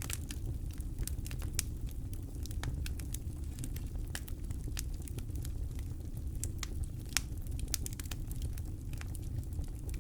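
Campfire crackling: wood burning with irregular sharp pops and snaps, several a second, over a steady low rumble.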